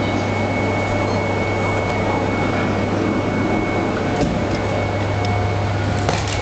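Steady low hum and whir of a Max Toki double-deck Shinkansen train, with a high steady whine that fades out about halfway through and a few light clicks near the end.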